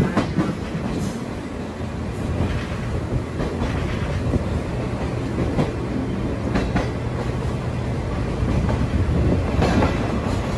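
Sagano trolley train running along the line, heard from on board: a steady rumble of wheels on rails, with a few sharp clacks over rail joints at irregular moments.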